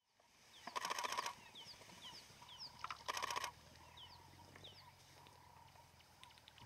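Two loud, harsh bird calls, each a quick burst of rapidly repeated notes lasting about half a second, about a second in and again near three seconds. Short, high falling chirps of other birds sound between and after them.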